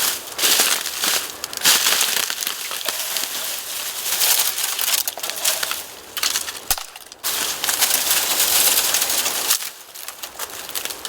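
Dry bamboo branches and leaves crunching and crackling, a dense rustle full of small snaps in two long stretches that break off abruptly, once past the middle and again near the end.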